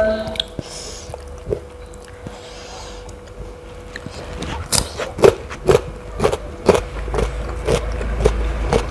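Close-up chewing of a raw cucumber stick coated in peanut sambal: a bite about five seconds in, then crisp crunches about twice a second.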